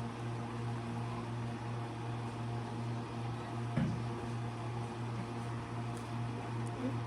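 Steady electric hum of a kitchen appliance's fan or motor, with a single brief knock about four seconds in.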